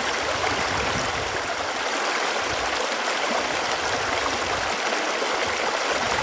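Running water flowing with a steady, even rush.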